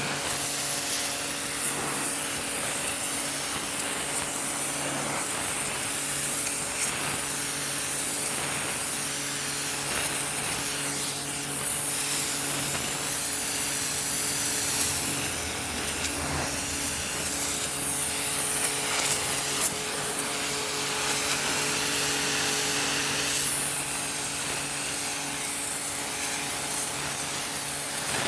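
High-pressure washer running steadily: its motor and pump hum under the loud hiss of the water jet striking stone as it blasts off moss. A single sharp click comes about two-thirds of the way through.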